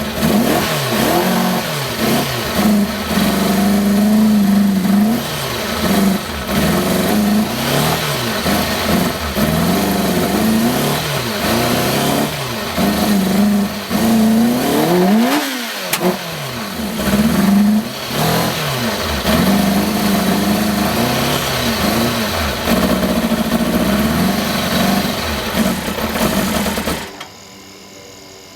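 2000 Kawasaki ZX-6R's inline-four engine running after an engine swap, the throttle blipped over and over so the revs rise and fall repeatedly, dipping low about halfway through before picking up again. It shuts off near the end.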